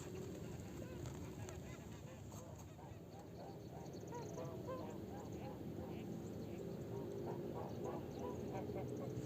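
Waterfowl calling in a rapid run of short honks, which grows busier from about four seconds in.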